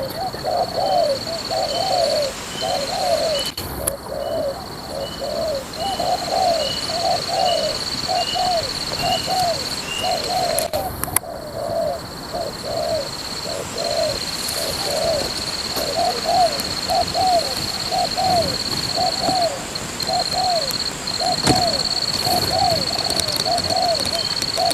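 Spotted doves cooing, a continuous run of short, low, arched coo notes about two a second, overlapping as though more than one bird is calling.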